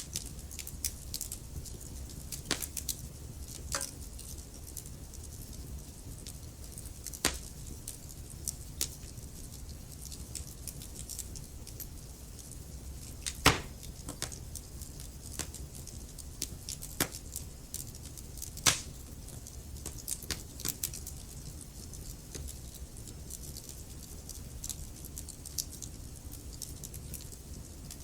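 Wood fire burning in a fireplace: a steady low rumble of flames under irregular sharp crackles and pops of the burning wood, a few louder pops standing out.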